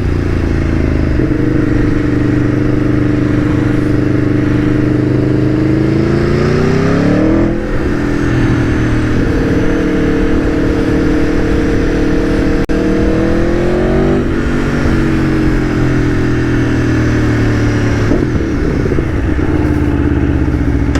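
Aprilia Tuono V4 1100's V4 engine on the move, heard from the bike while riding: the revs climb for several seconds, drop sharply about seven seconds in as at a gear change, build again, then drop once more near the middle and slowly fall away. A steady rush of wind and road noise runs underneath.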